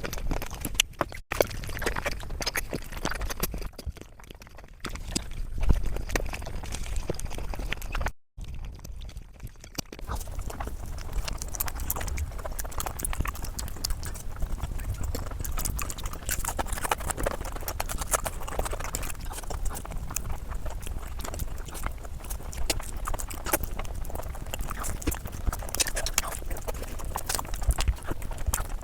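Close-miked chewing and crunching of food: dense, irregular wet clicks and crackles, cutting out briefly about a second in and again around eight seconds in.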